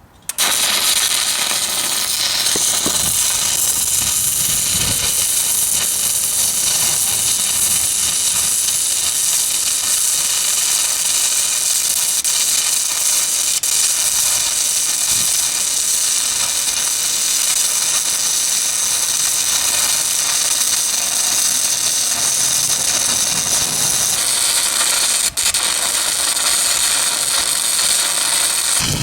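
A stick-welding arc from a 1/8 inch 6010 electrode on a Miller Syncrowave 210, run as a root pass on a steel plate joint. The arc is struck right at the start and burns as a loud, steady crackling hiss, with a momentary break about 25 seconds in.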